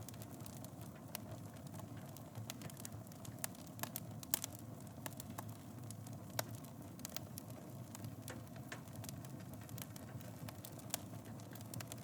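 Fireplace wood fire burning, with a steady low rumble and irregular sharp crackles and pops, the loudest a little after four seconds in.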